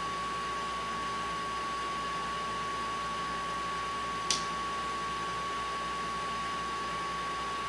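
Steady background hiss with a constant high-pitched whine, broken by a single sharp click about four seconds in.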